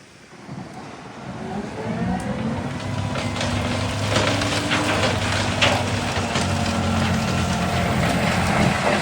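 Large wood chipper's diesel engine revving up over the first two seconds, then running steadily under load. A run of sharp cracks comes about four to six seconds in.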